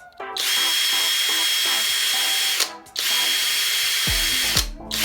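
Abeden HY-2035 18V brushless drill driver running at speed twice, each run about two seconds with a steady high whine, stopping sharply between. Background music with a bass line comes in near the end.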